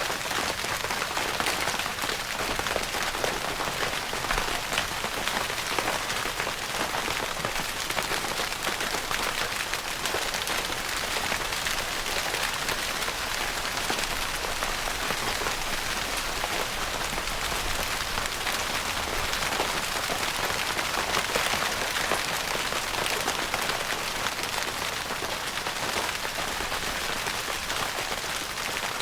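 Steady rain pattering on a tent's fabric roof, a dense, even patter of many small drop impacts.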